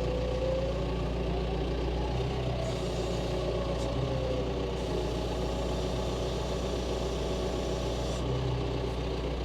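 John Deere tractor engine running steadily at low speed, its pitch wavering slightly.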